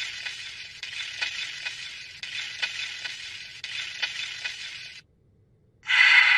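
A crackling, sizzling hiss with scattered clicks, like a frying sound effect, that stops about five seconds in. After a brief silence, a second hiss starts abruptly near the end and begins to fade.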